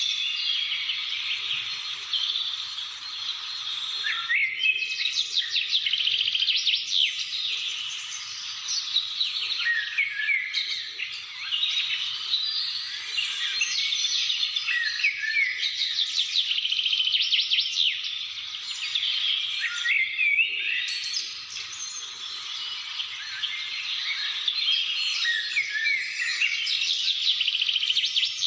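Several wild birds singing together in a dense chorus of overlapping chirps and rapid trills.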